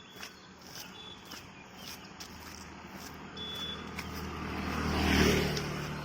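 A motor vehicle passes close by on the road. Its engine hum and tyre noise build and peak about five seconds in, then begin to fade. Steady footsteps tick along underneath.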